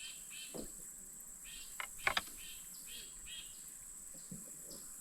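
Steady high insect drone along the creek, with short chirps repeating every half second or so throughout. A few sharp clicks come about two seconds in.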